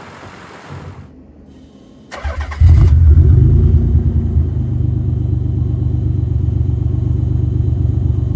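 1991 Nissan 300ZX's naturally aspirated 3.0L VG30DE V6 cold-starting. The starter cranks briefly about two seconds in, the engine catches with a loud flare, then settles into a steady idle.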